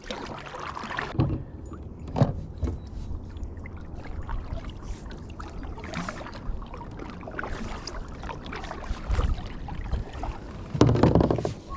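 Kayak on the water: irregular knocks and splashes against the plastic hull over a steady low rumble, with one louder clunk near the end.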